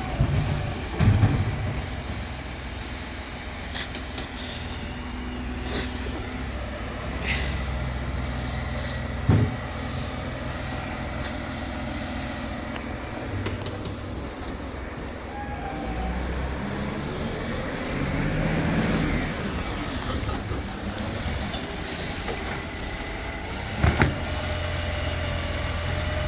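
Diesel FOGO rubbish truck running, with a steady engine drone, a rising hum from its working gear about two-thirds of the way through, and a few sharp knocks: one about a third of the way in and two close together near the end.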